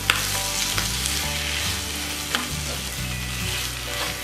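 Potato, fenugreek and spring-onion mixture sizzling in oil in a non-stick kadhai while a wooden spatula stirs and scrapes through it, with a few sharp taps of the spatula against the pan.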